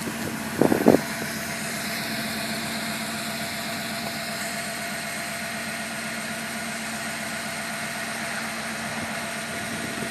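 Turbocharged 5.8 L V8 of a 1993 Ford F-150 Lightning, fitted with a T70 turbo kit, idling steadily. Two short loud thumps come about a second in.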